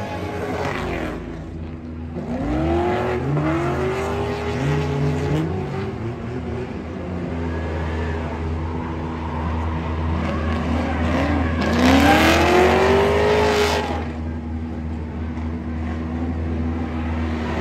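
Drift car's engine revving hard in repeated rising and falling sweeps as the car slides sideways, with tyre noise. The loudest rev comes about twelve seconds in.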